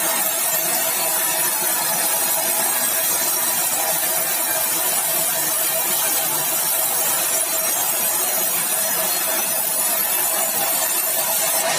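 Sawmill saw running steadily through meranti batu timber: an even, unbroken hiss with a constant hum underneath.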